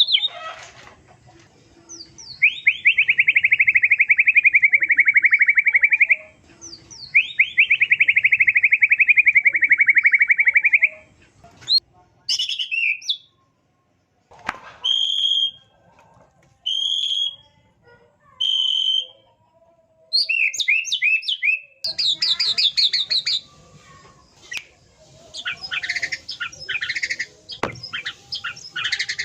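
White-rumped shama singing: two long rapid trills of about four seconds each, then three short clear whistles a couple of seconds apart, then a run of quick varied phrases.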